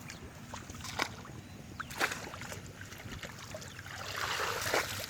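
Water splashing and sloshing, with a few sharp knocks in the first half and a longer, louder splashing near the end.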